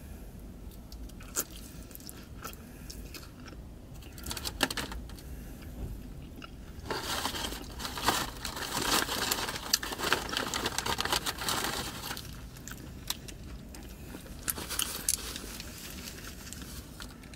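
Close-up biting and chewing of a Hot Cheeto-coated mozzarella corn dog, with the crunch of the coating and scattered wet mouth clicks. The crunching is densest and loudest in the middle.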